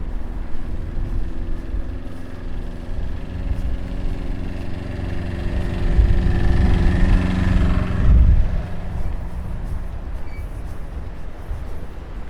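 Motor vehicle engine running close by, growing louder over several seconds and cutting off sharply about eight seconds in, over a steady low rumble.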